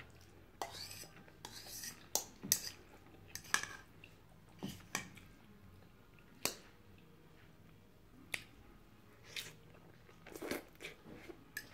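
A person chewing mouthfuls of chicken lo mein noodles, with scattered short, sharp clicks of a metal fork against a ceramic bowl, a dozen or so at irregular intervals.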